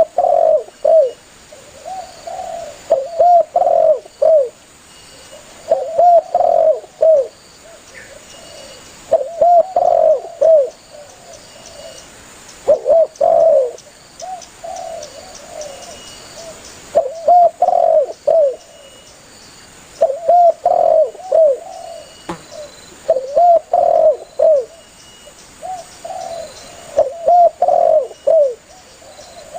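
Spotted dove cooing over and over. It gives phrases of several short, looping coos, one phrase every few seconds: the bird's call to others of its kind.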